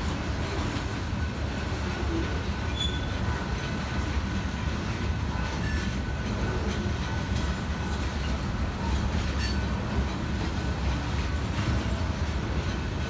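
Freight train cars (tank cars and covered hoppers) rolling steadily past: a continuous rumble of wheels on rail, with a faint thin high tone running through it.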